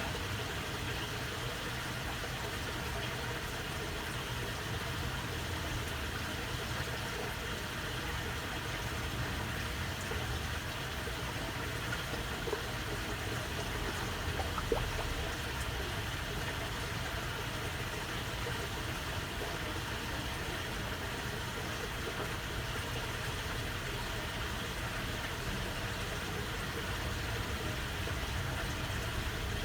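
Shallow water channel babbling steadily, with a steady low rumble underneath and a couple of faint ticks midway.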